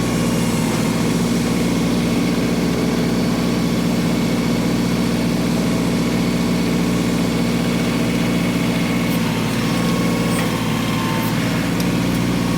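LS XG3025 compact tractor's diesel engine running steadily, a constant low engine note.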